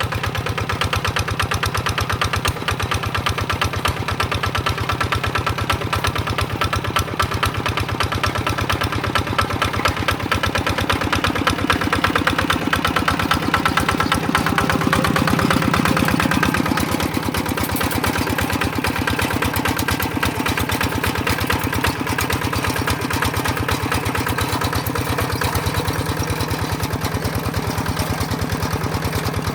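Tractor engine running steadily with a rapid, even beat, growing a little louder for a few seconds about halfway through.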